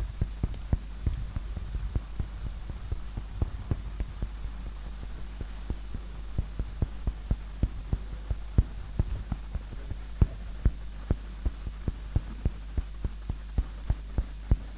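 Steady low electrical hum with irregular soft knocks and clicks, two or three a second.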